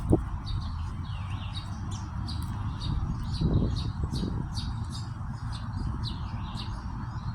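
Small birds chirping, many short high notes in quick succession, over a steady low rumble.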